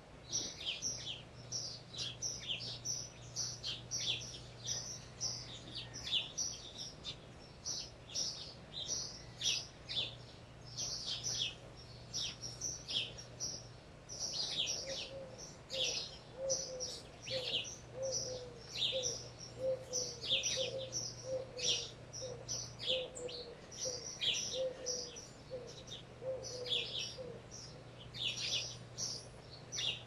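Small birds chirping busily: many quick, high, falling chirps, several a second. Through the middle stretch a lower note repeats about twice a second beneath them.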